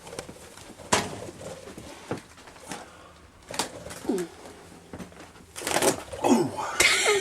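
Scuffling as people grab at a loose pet bird in a small room: a few sharp knocks early on, then a louder burst of rustling and flapping near the end.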